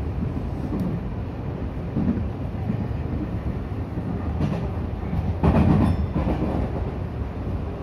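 Electric commuter train running along the track, heard from inside the driver's cab: a steady low rumble with wheel clickety-clack, and a louder burst of clatter about five and a half seconds in.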